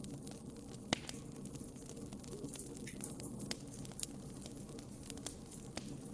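Wood fire burning in a fireplace: a steady low rush of flames with scattered sharp crackles and pops, the loudest pop about a second in.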